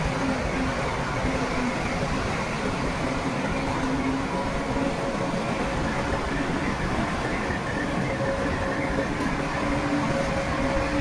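Heavy earthmoving machinery running steadily: a diesel engine's drone under a constant rumbling clatter, with no sudden knocks or changes.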